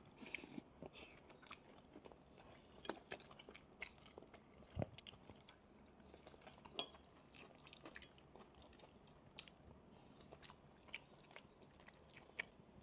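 Faint chewing of fried noodles, with scattered soft clicks and taps, a few of them sharper, about three, five and seven seconds in.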